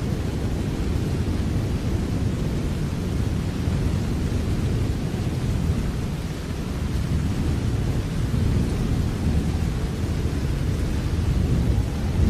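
Steady rain falling, an even wash of noise with a deep low rumble underneath that swells slightly near the end.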